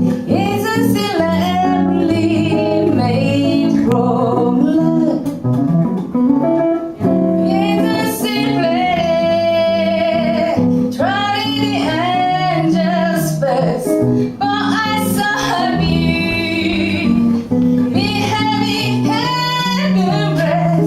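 A woman singing a light, jazz-style song live with guitar accompaniment.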